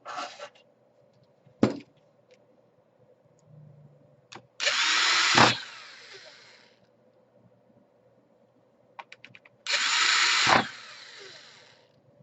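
Electric screwdriver driving laptop case screws: two runs of about a second each, each trailing off, with a few sharp clicks of handling before the first.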